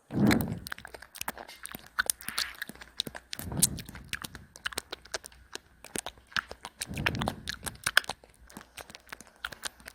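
Ragdoll cat crunching and chewing its food, a quick irregular run of crisp crunches with a few duller low thuds among them.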